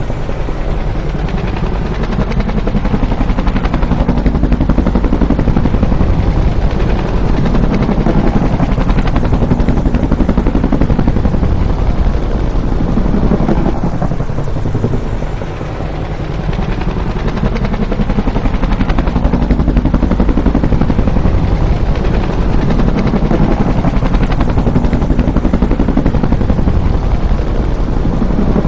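Bell UH-1 "Huey" helicopter, loud, its rotor beating in rapid steady thumps as it flies by. The pitch of the engine and rotor sound sweeps up and down several times, and the sound briefly eases about halfway through.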